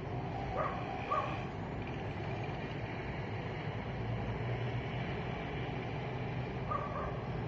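Steady rumble of street traffic. Short high tones sound twice about a second in and once near the end.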